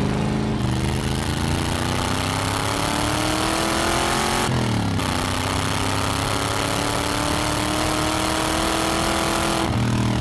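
The stripped 1985 C4 Corvette 'Vette Kart' and its 350-horsepower engine accelerating, the engine note climbing steadily, dropping sharply at a gear change about halfway, then climbing again until it falls off near the end.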